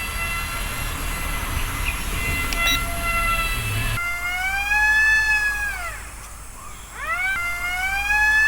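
Model airplane motor and propeller whining in flight: a steady pitch for about four seconds, then twice rising and falling in pitch as it throttles or passes by.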